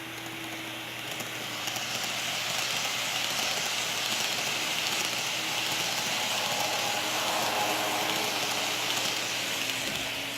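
Model 209 series electric train running on its track: a steady whirring rumble of motor and wheels that grows louder over the first couple of seconds, stays strong through the middle and eases off near the end, as the train passes close by.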